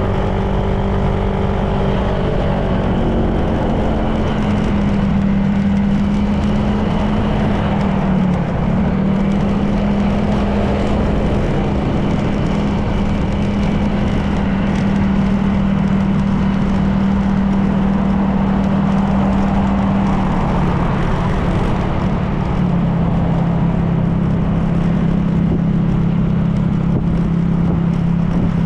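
Honda PCX 160 scooter's single-cylinder engine running steadily at riding speed, its pitch rising a little early on, dipping briefly, and dropping lower after about twenty seconds as the throttle changes, over constant wind and road noise.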